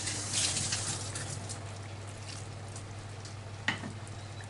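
Mutton gravy sizzling and crackling in a frying pan just after a splash of water goes in. It is loudest for about the first second, then dies down to a faint scattered crackle. A single sharp click comes about three and a half seconds in.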